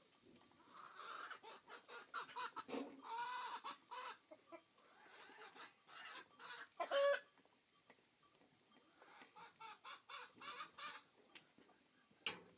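Chickens clucking: runs of short calls, with one louder call about seven seconds in and a sharp click near the end.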